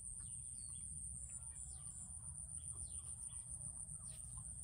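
Outdoor bird chirps: short, scattered, falling calls, over a steady high-pitched hiss and a low rumble.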